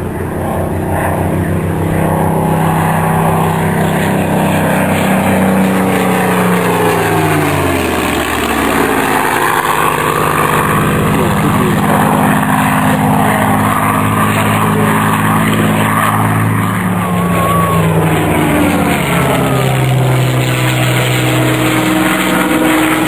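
Piston-engined propeller aircraft droning loudly and steadily. Its engine note slides down in pitch about seven seconds in and again near the end.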